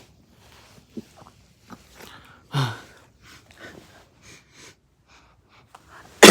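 A person's faint whispering and breathing, with a short voiced sigh about halfway through. A loud, sudden cough breaks out right at the end.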